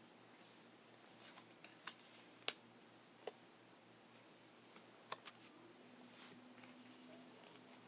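Near silence with a few faint, isolated clicks from trading cards being handled and sorted.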